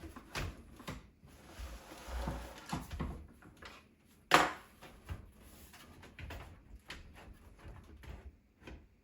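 Handling noises of PC parts on a bench: light clicks and knocks with a short rustle, and one sharp knock about four and a half seconds in.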